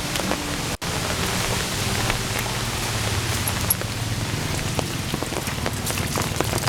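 Heavy rain falling, a dense steady hiss with many sharp drops ticking close by. A low hum runs underneath through the middle, and the sound cuts out for an instant just under a second in.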